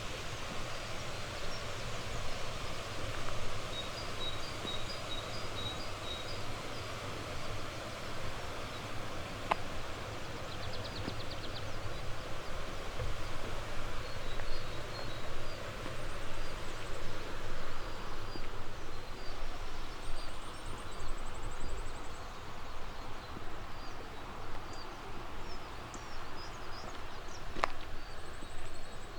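Small songbirds calling over a steady rushing background noise. There is a run of about six quick repeated chirps early on, a short fast trill about eleven seconds in, and thin high calls later. Two sharp clicks sound, one near the middle and one near the end.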